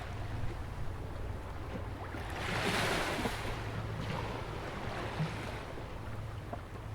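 Ocean waves breaking and washing up on a sandy beach, with one wave surging in more loudly about two and a half seconds in.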